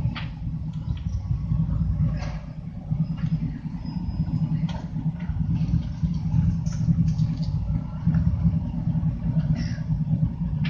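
Motorcycle engine running with a steady, pulsing low rumble, with occasional short clicks over it; the level holds rather than fading away.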